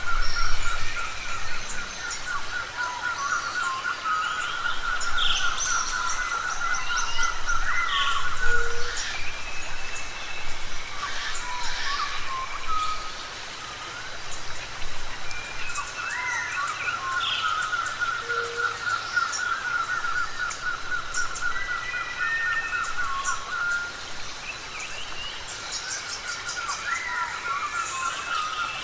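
A mixed chorus of forest birds calling. A long, rapid trill on one pitch comes three times: at the start, from about 16 to 23 seconds, and again near the end. Many short whistles, chirps and sliding notes from other birds sound around it.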